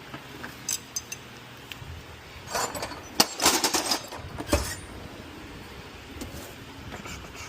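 Metal hand tools (wrenches and sockets) clinking and rattling as they are put away, with a few scattered clicks, a busy run of clinks around the middle and a dull thump just after.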